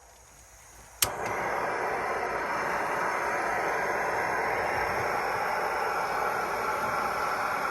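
Fire Maple integrated canister stove (Jetboil-style) lit about a second in: a sharp click, then the gas burner hisses steadily.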